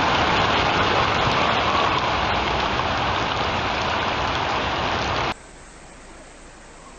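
Heavy rain pouring down in a loud, steady hiss that cuts off abruptly about five seconds in, giving way to a much quieter wash of rain or running water.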